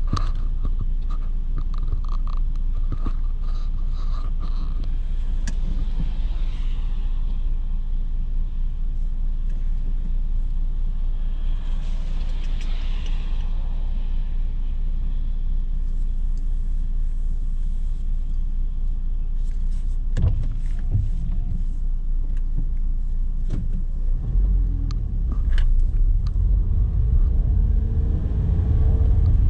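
Car driving, heard from inside the cabin: a steady low road and engine rumble with scattered light clicks. Near the end it grows louder and the engine pitch rises as the car speeds up.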